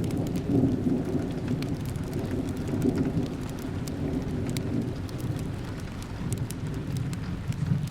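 Steady rain with a low, thunder-like rumble that eases off after the first few seconds, over scattered sharp crackles and pops of a fireplace.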